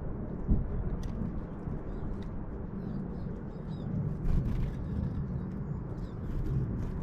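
Small birds at a feeder giving faint short chirps, with scattered sharp clicks, over a steady low rumble; a single thump about half a second in.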